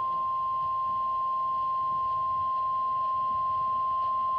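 Weather radio warning alarm tone: one long, steady, high pure tone, the alert signal that comes before a new warning message.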